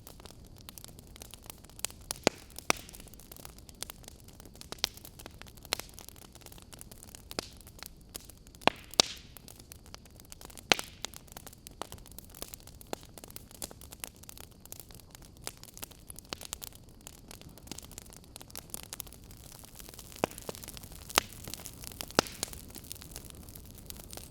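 Wood fire crackling in a fireplace: irregular sharp pops and snaps, a few of them loud, over a steady hiss.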